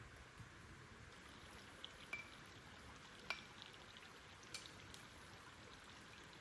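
Near silence: a faint steady hiss with a handful of scattered faint clicks and ticks.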